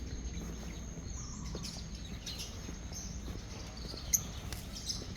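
Outdoor ambience: a steady low rumble with scattered faint high bird chirps, and one sharp click about four seconds in.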